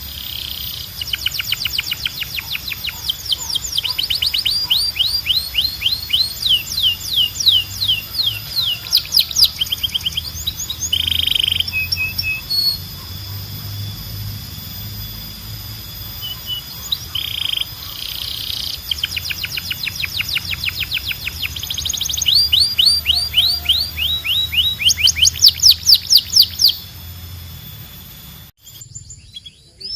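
Domestic canary singing a long, varied song of fast trills, each built from rapidly repeated downward-sweeping high notes, with a few short held notes between them. The song breaks off suddenly near the end and starts again just after.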